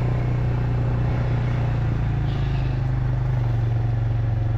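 Vehicle engine running steadily, a constant low drone, while riding along slowly.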